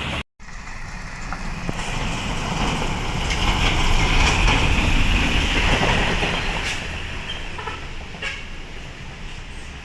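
Hino container truck's engine labouring, with tyre and road noise; it builds up over the first few seconds, then fades away.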